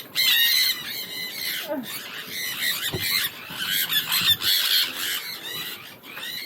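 A flock of small birds chirping and chattering close by, with many quick, high-pitched overlapping calls.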